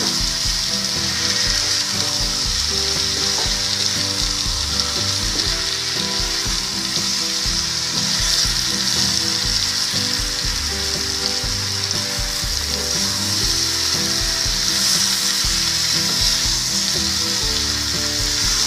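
Chunks of raw jackfruit, potato and tomato sizzling steadily in spiced oil in a kadai, with a spatula stirring and scraping them through the masala: the masala-sautéing (kosha) stage of a jackfruit curry, the tomatoes softening in the heat.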